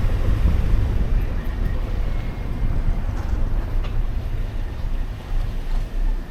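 Street traffic rumbling steadily, with wind buffeting the microphone.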